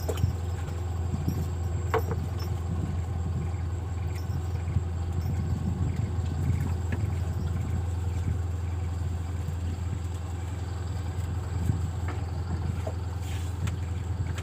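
Steady low hum of a motor running, with a few faint clicks.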